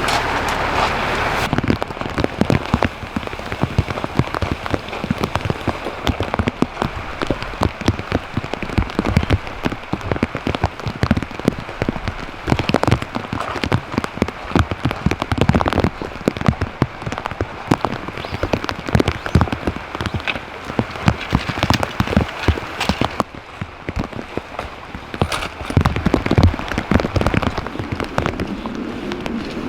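Rain falling, with many heavy drops striking a surface close by in a dense, irregular patter.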